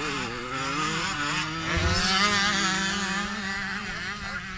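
Dirt bike engine running, revving up to a peak about two seconds in and then easing back.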